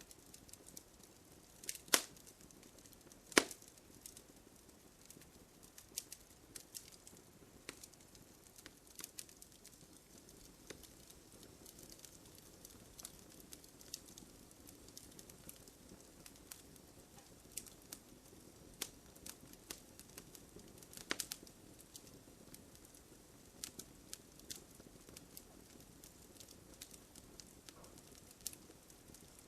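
Wood campfire crackling, with scattered sharp pops over a faint low hiss; two loud pops come about two and three and a half seconds in.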